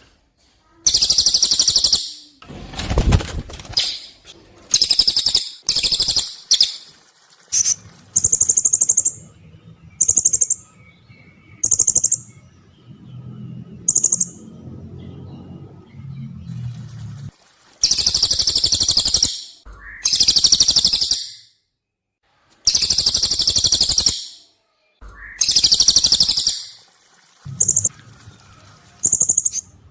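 Cililin and serindit (blue-crowned hanging parrot) birdsong recording: loud, piercing, very high trills about a second or two long, repeated with short pauses between. Between the trills come short, shrill, high single calls, repeated several times.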